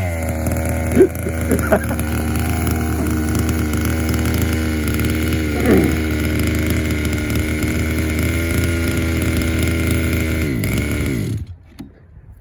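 Two-stroke gas engine of a large-scale RC monster truck running at a steady idle, with a couple of short revs. Its pitch drops as it winds down, and it cuts out about eleven seconds in.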